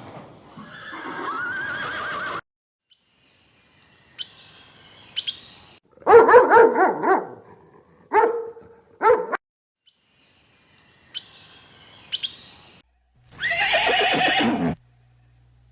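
A string of short animal calls, each cut off abruptly: several loud pitched calls with falling tones, and faint high chirps between them.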